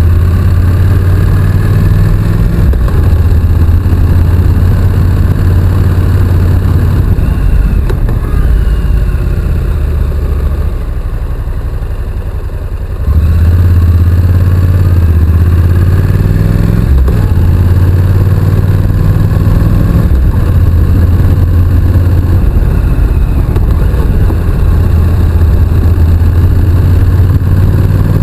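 Honda NC750X parallel-twin engine running steadily under way. It eases off and goes quieter about a third of the way in, then comes back on the throttle sharply just before halfway and climbs in pitch as it accelerates.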